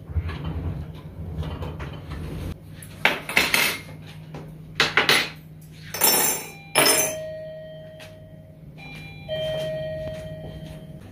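Dishes and cutlery clattering and clinking as kitchen things are handled, with several sharp clatters in the middle. A steady tone sounds twice in the second half.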